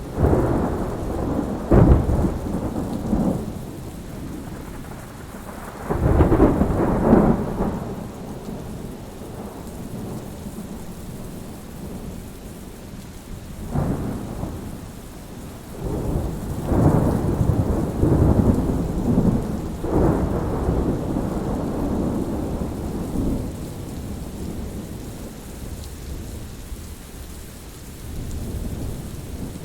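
Thunder rumbling in repeated rolls over steady rain. The loudest peals come about two and seven seconds in, with a sharper clap a little before the middle and a long rolling stretch after it.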